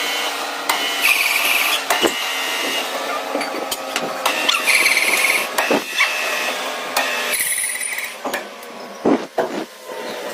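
Manual lathe running while a crankshaft is machined: a steady mechanical hum under repeated bursts of high scraping from the cutting tool on the metal, with scattered knocks, two loud ones about nine seconds in.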